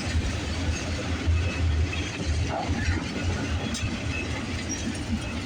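Freight train rolling past, a steady low rumble of its cars on the rails.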